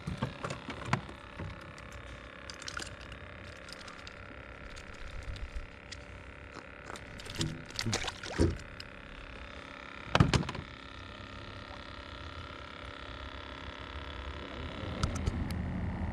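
Scattered knocks and clicks from handling on a kayak, with a few louder knocks partway through and the sharpest about ten seconds in. A low rushing noise grows near the end.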